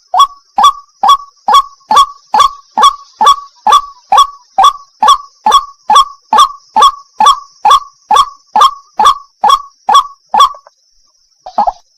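White-breasted waterhen calling a loud, rhythmic 'wak' note about two times a second, each note dropping in pitch. The calls stop about ten and a half seconds in, with one last call shortly after.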